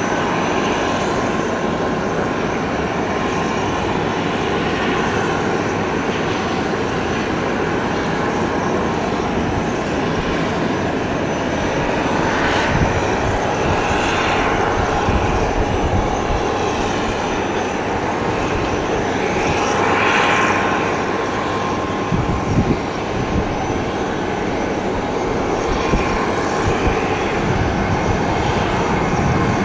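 Airliner engines running steadily as an aircraft moves near the airport, with a continuous rushing noise and a whine that swells briefly a couple of times.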